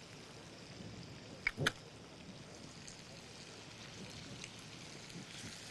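Faint sizzling of sausage and peppers frying in butter in a pan as garlic goes in, with two light clicks about a second and a half in.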